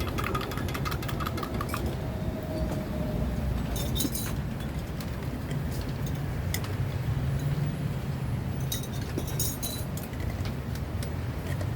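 Clinking of drink-making utensils and ice: a fast run of small clicks at first, then scattered sharp clinks about four seconds in and again near nine to ten seconds, over a steady low hum.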